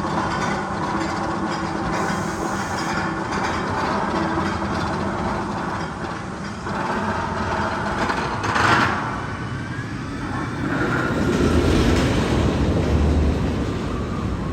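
Rumbling and clattering like train cars running on rails. It holds fairly steady, with a louder rush about eight and a half seconds in and a deeper rumble near the end.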